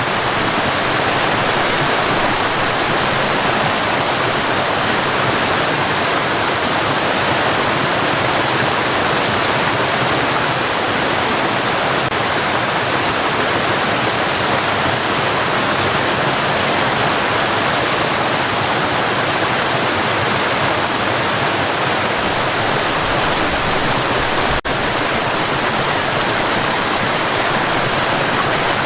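Steady white-noise hiss for baby sleep, an even rushing noise with no change in pitch or level, broken once by a split-second dropout about 25 seconds in.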